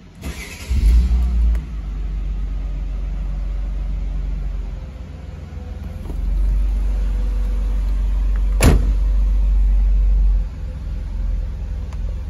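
Mercedes-Benz E320 cabriolet's 3.2-litre straight-six being started: the starter cranks briefly, the engine catches with a short flare of revs and settles to a steady idle. About halfway through, the engine gets louder and holds there for about four seconds, with one sharp click near the end of that stretch, then drops back to idle.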